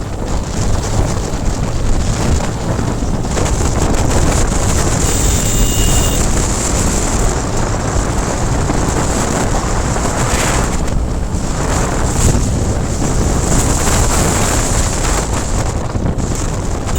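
Wind buffeting the microphone of a moving motorcycle, with the engine running underneath as a steady low rumble.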